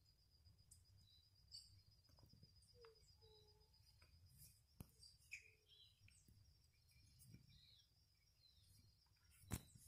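Near silence with faint, scattered bird chirps. A sharp click comes near the end.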